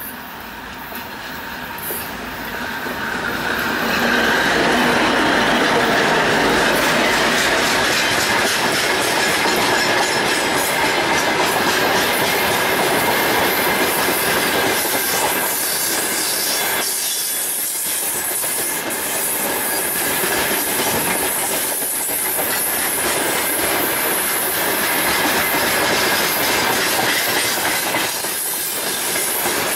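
A 2M62U twin-section diesel freight locomotive draws near and passes, its sound rising over the first few seconds, and then a long train of open freight wagons rolls by at speed. The wheels clatter over the rail joints, with a steady high squeal over the run.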